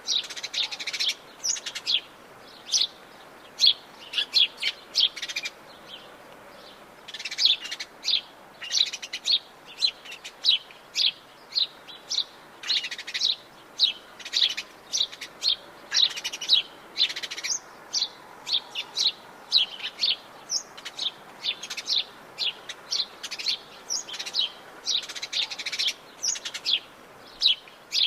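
Several wild birds of the Brazilian Atlantic Forest singing and chirping, with many short, high chirps in quick succession and a brief lull a few seconds in.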